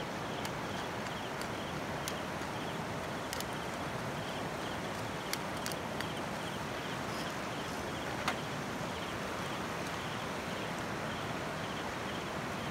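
Steady rush of flowing creek water, with a repeating faint high chirping and a few scattered sharp clicks, the loudest about eight seconds in.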